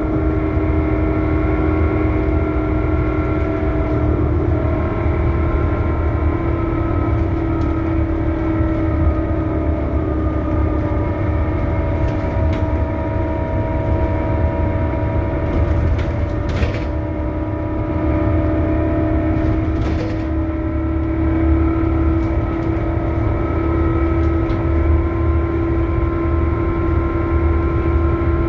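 Scania K280UB bus under way, its low drivetrain rumble overlaid with a loud, steady, horrible-sounding whine of several tones that drift slowly up and down in pitch with speed. A couple of brief rattles come about halfway through.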